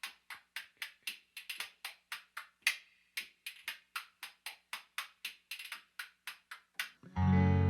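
Dry wooden percussion taps in a steady rhythm, about three to four a second with some doubled strokes, opening a song. About seven seconds in, a sustained guitar chord comes in, louder than the taps.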